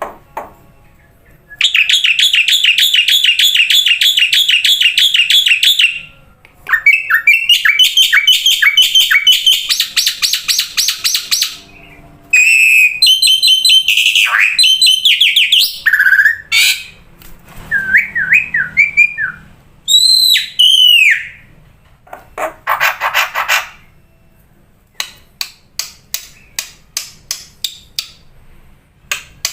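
Black-winged myna (jalak putih) singing a loud, varied song. It strings together long fast trills, runs of separate notes, slurred whistles that bend up and down, and near the end a series of sharp clicks.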